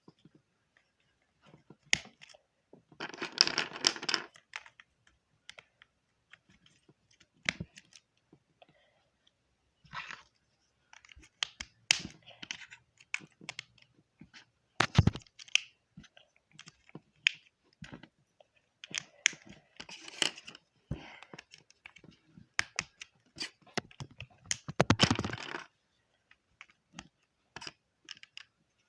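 Rasti plastic construction pieces being handled and fitted together: irregular clicks and taps with short bursts of rattling and rummaging, the longest about three seconds in and again near twenty-five seconds.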